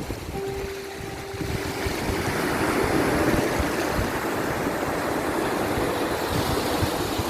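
Ocean waves washing on a shore in a steady rush that swells to a crest about three seconds in. A few faint, soft held notes sound underneath.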